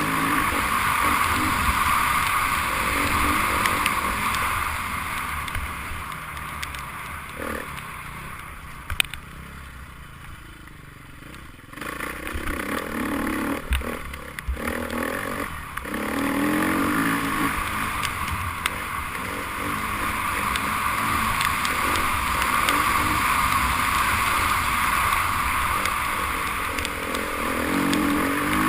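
Enduro motorcycle engines revving as bikes ride past. The engine noise fades for a few seconds in the middle, with a sharp knock, and rises again from about twelve seconds in.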